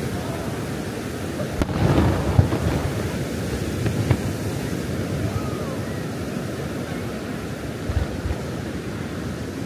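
Steady rush of surf and wind on the microphone, with a few firework bangs: a cluster about two seconds in, then single ones around four and eight seconds.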